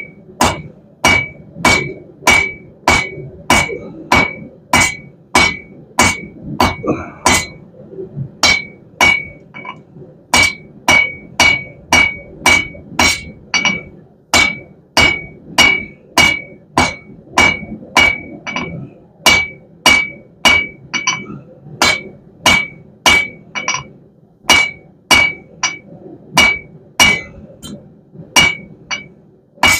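Hand hammer striking hot half-inch round steel bar on an anvil, drawing out a taper to a point: a steady run of blows, a little under two a second with a few short pauses, each blow ringing with a bright high note.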